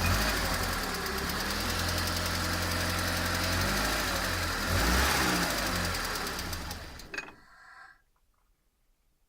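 ZMZ-406 inline-four petrol engine running with a light, even ticking, blipped about five seconds in, then switched off and running down about seven seconds in, leaving near silence. It carries an extraneous knock or ringing that shows when revved and at shutdown, which the owner places in the block itself.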